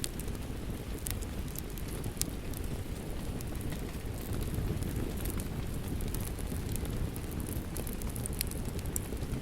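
Fireplace crackling, with frequent short sharp pops, over the steady low rushing of rain.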